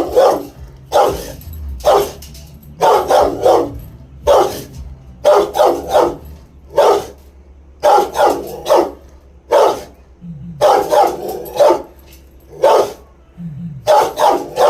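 Dog barking over and over, singly and in quick pairs, about once a second, excited barking at pigeons it is trying to reach.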